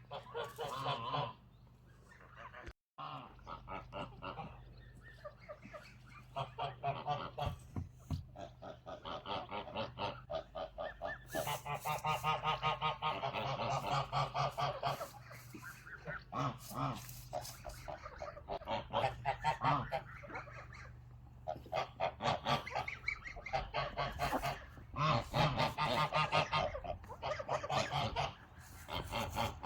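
A flock of Dominant laying hens clucking and squawking, many calls overlapping and swelling in louder waves.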